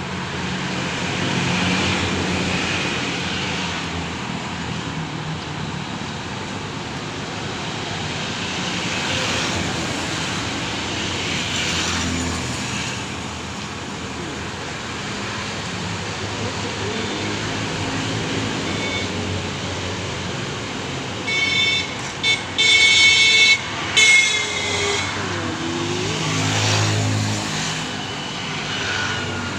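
Road traffic passing steadily, with a vehicle horn honking several short times about three-quarters of the way through.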